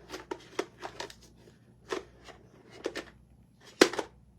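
A series of sharp clicks and knocks, irregularly spaced, of small plastic craft paint bottles being picked up, knocked together and set down while a tan colour is searched for; the loudest knock comes near the end.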